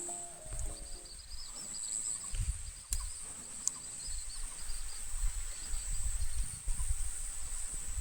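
Outdoor field ambience: a steady high-pitched insect drone with a fainter wavering chirping over it for the first few seconds, above an uneven low rumble of wind or handling on the microphone. A music track ends about a second in.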